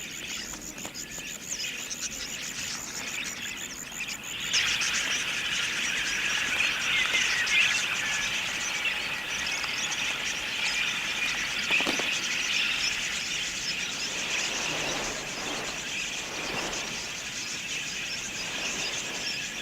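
A flock of wild budgerigars chattering, with many small high chirps overlapping. For the first few seconds the calls are sparse over a steady fast trilling; about four and a half seconds in, the chatter suddenly becomes louder and denser and stays so.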